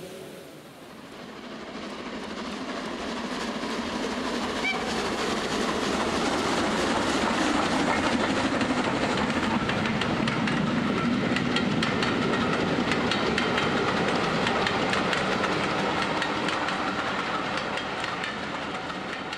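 A train passing. The sound builds up, runs steadily with a run of sharp clicks from its wheels, then fades away near the end.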